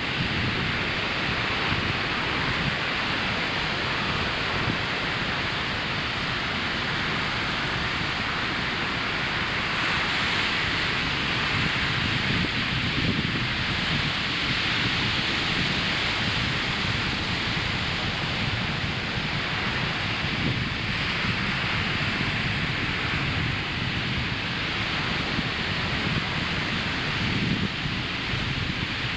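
Ocean surf washing steadily onto a sandy beach, a continuous roar of breaking waves that swells gently and eases, mixed with wind on the microphone.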